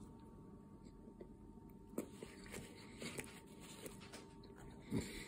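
Close-up chewing of a taquito: soft scattered mouth clicks and smacks starting about two seconds in, with a louder smack near the end.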